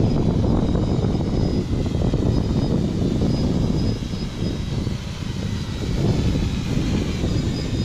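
Wind buffeting the microphone, with the thin high-pitched whine of a quadcopter drone's motors and propellers in flight. The drone is an UpAirOne 2K, and the pilot takes the squeal for a sign that one of its motors is damaged. The rumble eases slightly about four seconds in.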